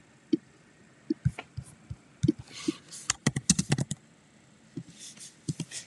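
Irregular short clicks and taps, with a quick cluster of them in the middle.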